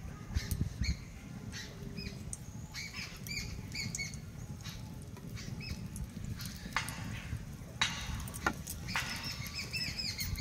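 Small birds chirping again and again in short calls over a steady low rumble, with a few light knocks and brief soft hissing.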